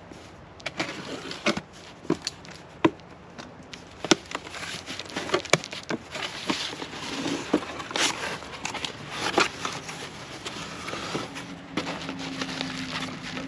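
Packaging being handled and unwrapped: crinkling, rustling noise with many irregular sharp clicks and taps.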